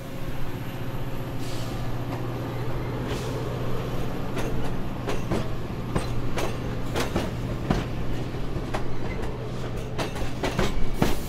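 A train running along the track: a steady low hum with sharp, irregular clacks from the wheels on the rails.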